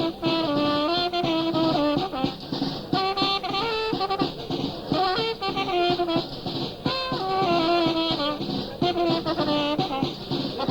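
Instrumental music played live: a melody of held notes moving step by step over drums, heard through the dull, narrow sound of an old cassette recording.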